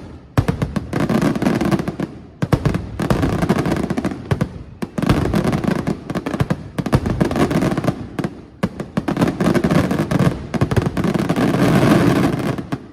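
Fireworks going off in dense, rapid barrages of many sharp bangs, in four waves with brief lulls between them, stopping suddenly near the end.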